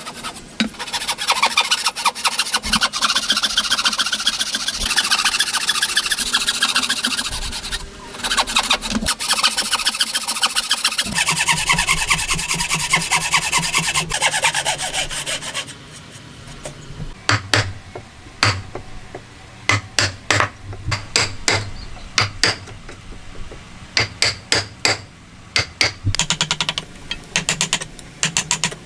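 Hand tool rasping and scraping on wood in quick, rhythmic strokes for about the first half. Then a low hum with groups of sharp clicks.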